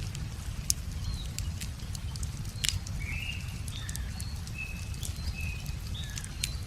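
Wood fire crackling, with sharp pops about 0.7 s and 2.7 s in, over a steady low rumble. Small birds call in short chirps throughout.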